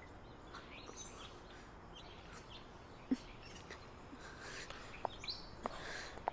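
Faint birds chirping in the background, with a soft knock about three seconds in and a few light taps near the end.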